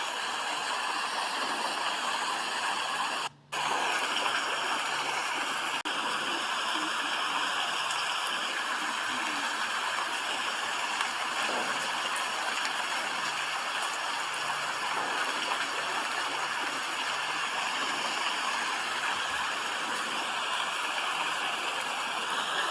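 Steady rain falling, an even hiss of water. It cuts out for a split second about three seconds in.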